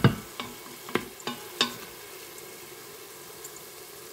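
Carnaroli rice, diced ham and peas sizzling in the stainless steel inner pot of an electric pressure cooker on sauté. A wooden spoon stirring them knocks against the pot a few times in the first second and a half, loudest at the very start, then only the steady sizzle goes on.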